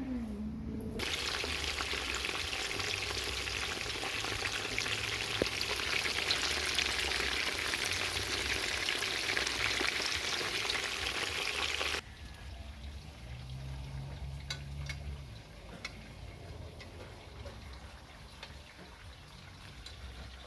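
Food sizzling in hot oil in a cooking pot, a dense steady sizzle that starts about a second in and cuts off abruptly a little over halfway through. The rest is much quieter, with a few faint clicks and a brief low hum.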